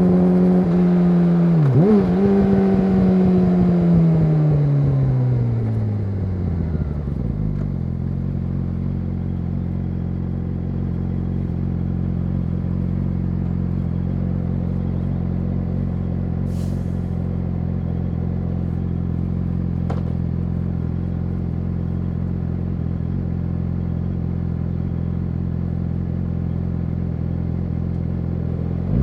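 Yamaha YZF-R6's inline-four through an SC-Project SC1-R exhaust: the engine note falls steadily as the bike slows over the first several seconds, then settles into a steady idle.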